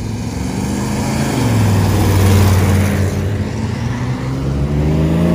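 Car engine accelerating as the car drives off. The engine note climbs, drops about three seconds in, then climbs again louder near the end.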